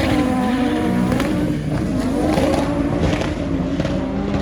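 Car engine running at a drag strip, its revs rising and falling repeatedly as it is blipped.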